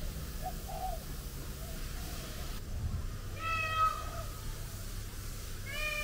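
A bird calling: one pitched call with rich overtones about halfway through, and a second call beginning right at the end, over a steady low background hum.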